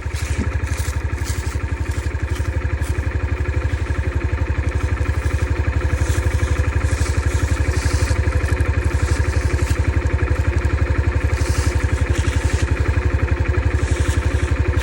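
Dirt bike engine idling steadily, an even, rapid pulsing that holds at one pitch.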